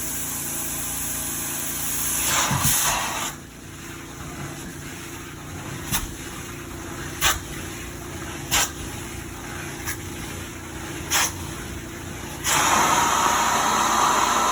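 Carpet-cleaning extraction machine running with a steady hum and a hissing vacuum. The hiss drops about three seconds in, then comes in five short whooshes about a second and a half apart, and returns at full strength near the end.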